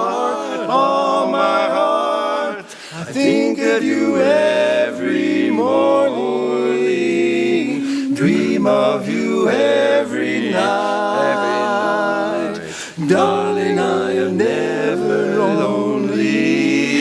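Barbershop quartet singing a cappella in close four-part harmony, holding chords with short breaks between phrases.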